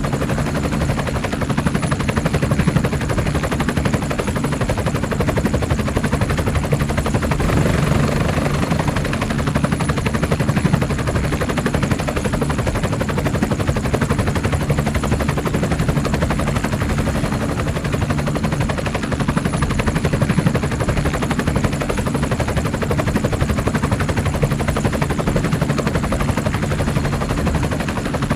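Helicopter running steadily, its rotor giving a fast, even chopping beat throughout.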